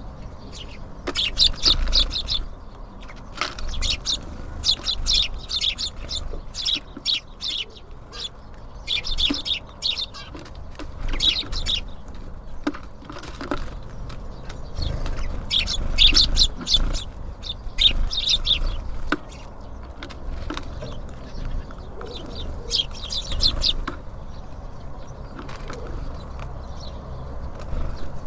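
Small birds at a feeder, tits and sparrows, giving clusters of short, high chirps and calls, with wings fluttering, over a low steady rumble.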